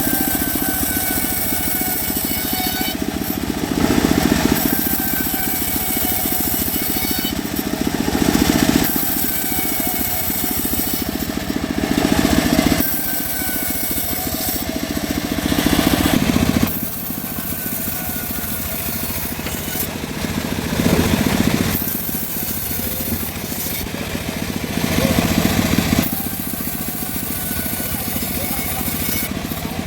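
Homemade bandsaw mill running and sawing through mahogany. The drone swells every four to five seconds as the cut loads up, and a whine falls in pitch in between.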